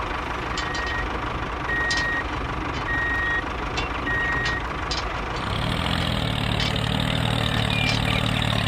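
A truck's reversing alarm beeps four times, evenly spaced, over a running engine. About halfway through, a deeper engine hum comes in and holds steady.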